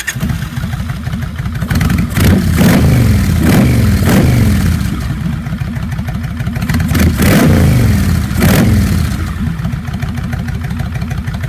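1999 Kawasaki Vulcan Classic 1500 V-twin breathing through a Kuryakyn Hypercharger intake, idling and then blipped up and down several times between about two and nine seconds in, before settling back to idle. The intake rattle it used to make at certain revs has been stopped by a piece of zip tie pushed in along the throttle butterfly shaft.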